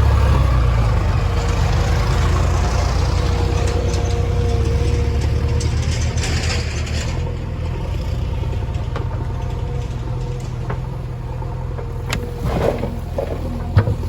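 Heavy diesel engine running steadily, easing off a little after the first few seconds. A short hiss comes about six seconds in, and a few sharp knocks come near the end.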